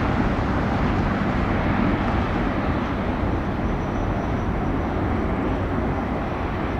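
Jet aircraft engine noise: a steady, broad rumble that slowly fades, with a faint high whine coming in about halfway through.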